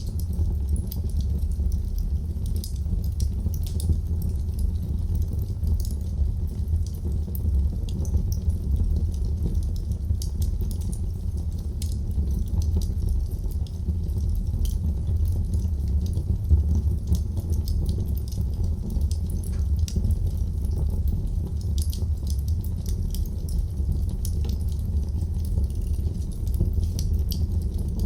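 Wood fire burning in a fireplace: a steady low rumble of flames with frequent small crackles and pops scattered through it.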